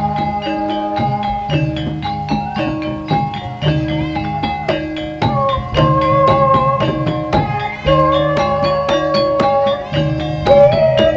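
Live gamelan-style music for an ebeg (jaran kepang) horse dance: struck metal or bamboo keyed instruments and drums playing a steady repeating pattern, with a held melody line coming in about five seconds in.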